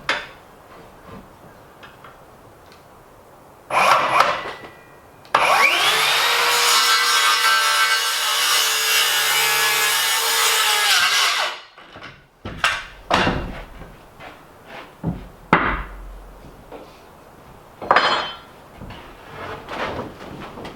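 Electric power saw spinning up and cutting through timber for about six seconds, its pitch rising as it starts, then winding down. Wooden knocks and clunks of boards being handled follow.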